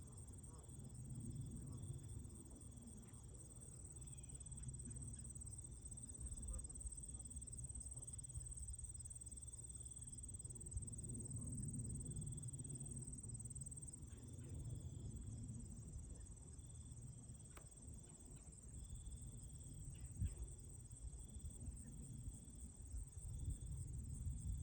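Insects trilling in a steady high tone, with a lower chirp repeating in short pulses about once a second, over a low rumble.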